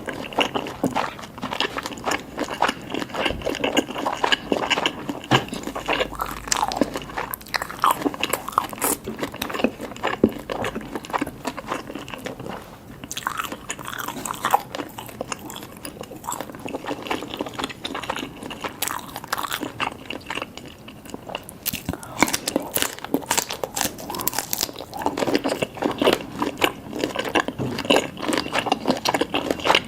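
Close-miked eating sounds of jumbo oysters and jumbo cocktail shrimp being bitten and chewed, a dense run of irregular short clicks and mouth noises.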